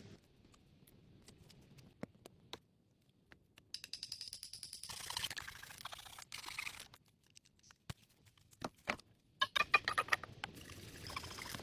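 Scattered clicks and knocks, with a few seconds of scratchy scraping in the middle and a quick run of clicks near the end, like hand work with wood or earth.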